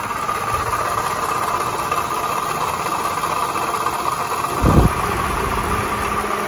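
Scion tC's 2.4-litre four-cylinder engine idling with a rattling noise from the drive belt area, which the owner suspects may be a bad water pump pulley. A single louder thump comes about four and a half seconds in.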